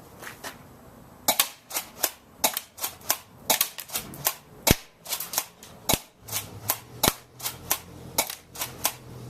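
Double Eagle airsoft shotgun fired over and over: a rapid series of sharp snapping shots, about two or three a second, starting about a second in.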